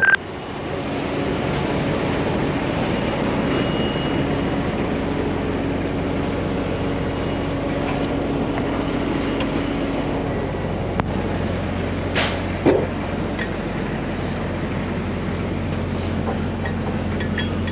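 Heavy truck diesel engine running steadily with a low drone. A brief sharp noise cuts in about twelve seconds in.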